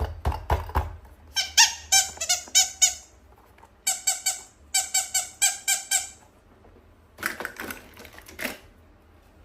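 A toy squeaking in quick runs of short, high-pitched squeaks, about four a second, as it is squeezed again and again. A few clicks come first, and some handling noise follows near the end.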